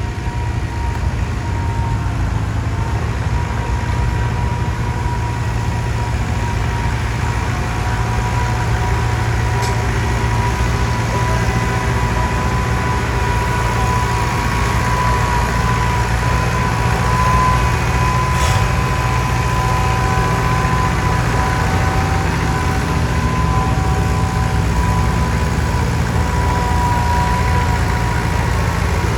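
Antique farm tractor engine running steadily and hard under load, pulling the weight-transfer sled down the track.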